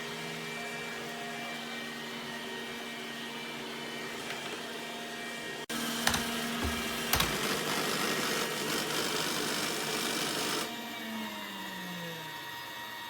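Robot vacuum running with a steady motor hum. After a brief break comes a louder rushing noise with two sharp knocks, which cuts off suddenly, and then a motor's pitch falls as it winds down.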